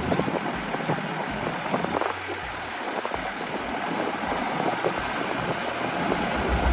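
Combine harvester working at a distance: a steady rushing noise with a faint low engine hum. The engine gets louder near the end.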